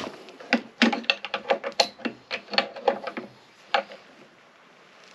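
A quick, irregular run of sharp clicks and knocks from hand work on metal parts, about fifteen in the first four seconds, then it goes quiet.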